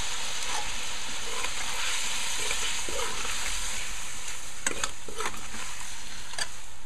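Beef chunks in curry masala sizzling steadily as they fry down in a pot, while a metal spoon stirs them, with a few short knocks of the spoon against the pot in the last couple of seconds.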